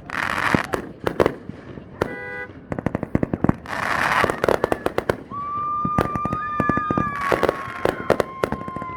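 Aerial fireworks crackling and popping in rapid strings of sharp cracks, with hissing bursts near the start, about four seconds in and again about seven seconds in. From about halfway a steady, high whistling tone runs on over the crackle.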